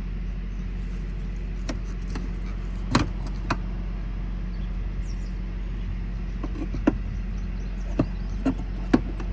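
Steady low drone of an idling diesel truck engine, with a handful of sharp clicks and knocks over it, the loudest about three seconds in and near the end.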